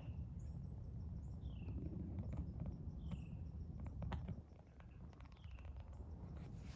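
A woodland bird repeating a short high call that falls in pitch, about once every second and a half, over a steady low rumble with scattered faint clicks.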